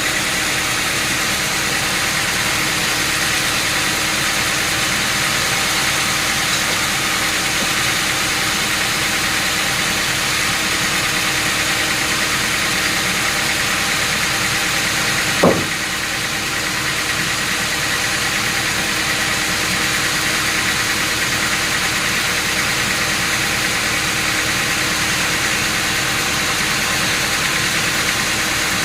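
A machine or engine running steadily with an even hum, and one short sharp blip a little past halfway.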